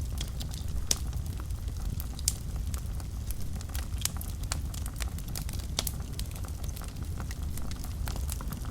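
Wood fire burning in a fireplace: a steady low rumble of flames with irregular sharp crackles and pops, two of them louder about one and two seconds in.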